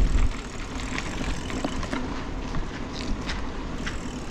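Riding noise from a mountain bike on the move: a steady low rumble with a few light clicks and rattles, and a short thump right at the start.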